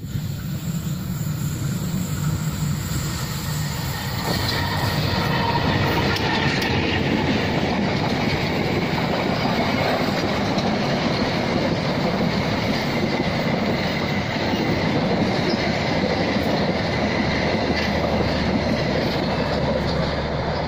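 Diesel-hauled passenger train passing on the rails, a steady rumble of wheels on track with a faint high squeal, getting louder about four seconds in.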